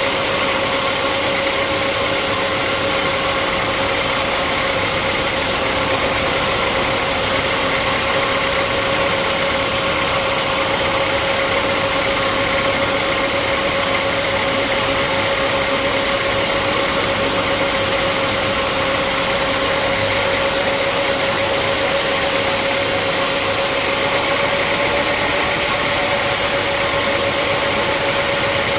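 Sawmill machinery running at a steady, unchanging speed: a constant hum with one clear tone, over a wide hiss.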